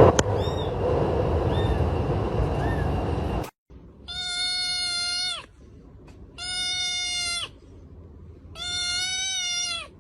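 A steady rushing noise that cuts off abruptly, then a cat meowing three times. Each meow is long and level-pitched and falls slightly at the end.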